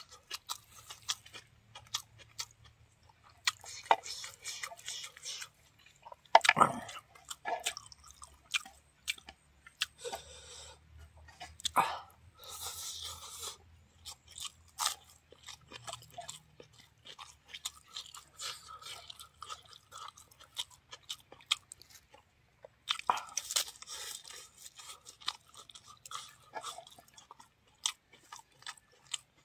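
Close-up mouth sounds of chewing and crunching: a meal of rice, buffalo meat and fresh lettuce leaves eaten by hand, with many short wet clicks and several louder crunchy bites.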